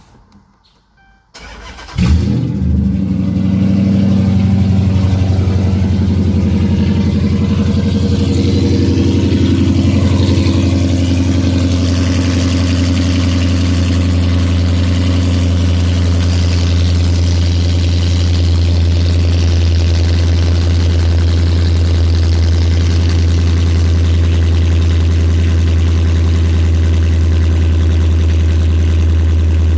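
Dodge Charger R/T V8 with its mufflers removed, straight pipes and gutted catalytic converters, cranked and catching about two seconds in, then idling loud. This is a cold start: the fast idle eases a little after about ten seconds.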